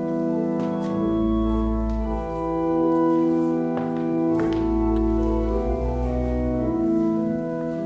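Church organ playing slow, sustained chords with deep pedal bass notes, the harmony changing every second or two. A few faint knocks sound over it.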